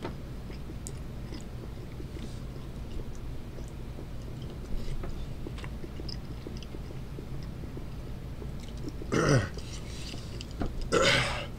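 A person chewing a mouthful of chocolate candy bar topped with mealworms and crickets, with small scattered mouth clicks. Near the end come two loud breathy exhales, the first dropping in pitch.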